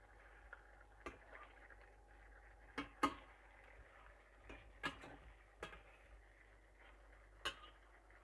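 Scattered light clicks and knocks of kitchen utensils, about seven in all, the loudest a quick pair around three seconds in, over a faint steady background hum.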